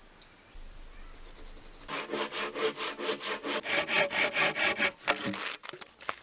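Hand saw cutting through wood in quick, even back-and-forth strokes. It starts about two seconds in and stops about a second before the end.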